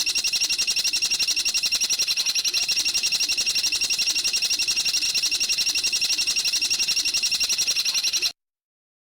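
A songbird's rapid, high-pitched rattling trill, about a dozen even notes a second, held steadily and then cutting off abruptly about eight seconds in, typical of a looped bird-training recording.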